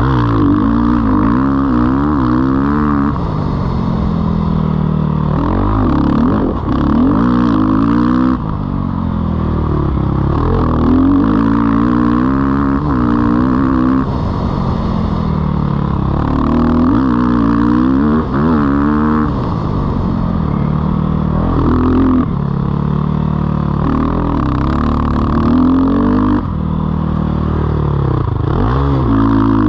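2019 Sherco 450 SEF's single-cylinder four-stroke engine being ridden hard, its revs climbing and dropping every second or two as the throttle is opened and closed through the turns.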